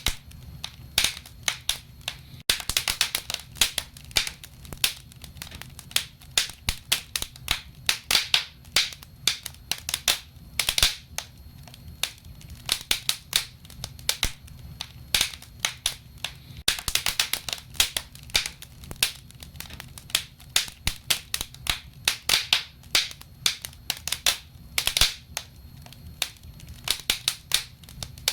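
Wood fire burning in a fireplace, crackling and popping irregularly, several sharp pops a second over a low steady rumble of the flames.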